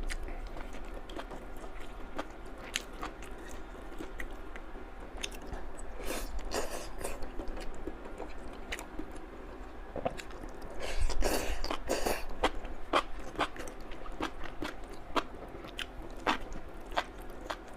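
Close-up eating sounds: chewing and slurping of spicy luosifen rice noodles with tofu skin and vegetables, with many irregular wet clicks and smacks, busiest around 6 seconds in and again around 11 seconds in.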